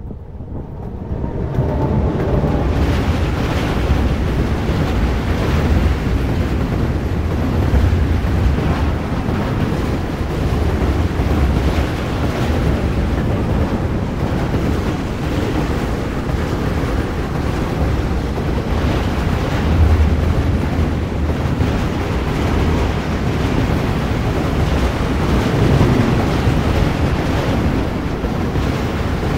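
An ASEA-type electric locomotive hauling a loaded freight train of tank wagons swells in over the first couple of seconds and passes very close. The wagons then roll by in a loud, steady rush of wheel-on-rail noise with a deep rumble, and the wind of the passing train buffets the microphone.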